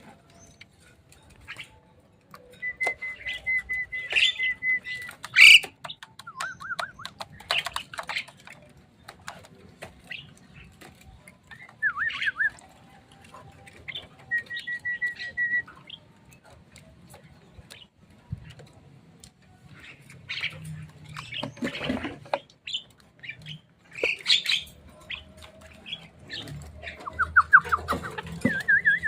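Javan mynas calling: short sharp chatter and clicks, with a few long steady whistles and wavering warbled trills.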